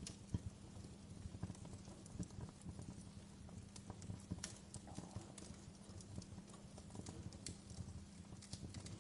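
Wood fire crackling, with irregular snaps and pops over a low, steady rushing hiss.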